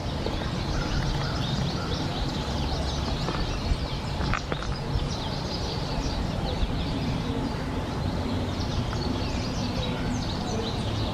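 Many short bird chirps and calls, overlapping throughout, over a steady low rumble.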